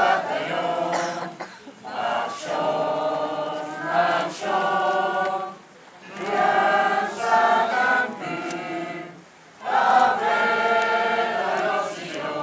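A group of people singing together, in sung phrases a few seconds long with short breaks between them.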